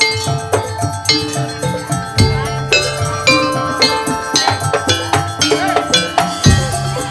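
Madurese tong-tong music: a percussion ensemble of bamboo slit drums, drums and bells playing a fast, dense rhythmic piece, with many struck notes a second over a steady drum beat.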